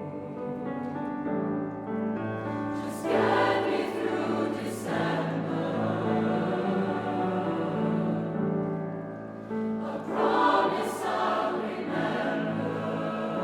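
Choir singing held chords in several parts, with crisp 's' sounds from the singers at a few points.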